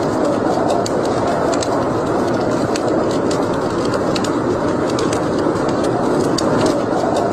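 Wood fire burning in a fireplace: a steady rushing noise with many sharp crackles and pops scattered irregularly throughout.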